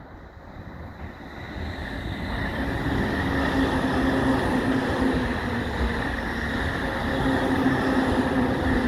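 JR East E531 series electric train running by. Its running noise builds over the first three seconds, then holds steady with a steady low hum.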